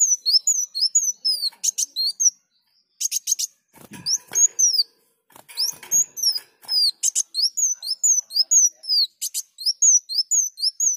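Kolibri wulung sunbird singing vigorously: rapid runs of high, thin sliding chirps, several a second, broken by short pauses and mixed with a few harsher, rasping bursts.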